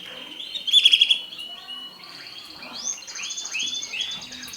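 Mosaic canary song: rapid trills and quick repeated chirping notes, with a loud burst of fast notes about a second in, then a run of short rising-and-falling notes over a high steady trill.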